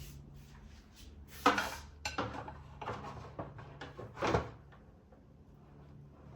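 Fridge drawers and food containers being handled while packing a fridge: a string of knocks and clatters, the loudest about a third of the way in and again near two-thirds, over a low steady hum.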